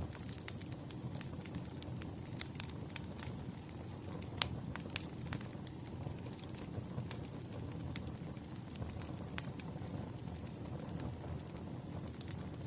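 Burning firewood crackling: many sharp pops and snaps, irregularly spaced, over a steady low rush of flames, with one louder pop a little past four seconds in.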